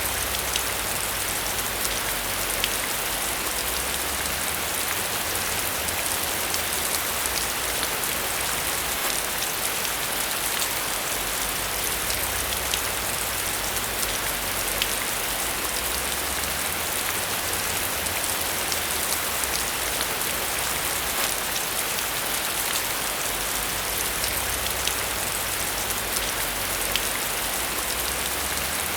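Steady rain falling on a surface, a dense hiss with many individual drops ticking, over a low rumble that swells and eases every few seconds.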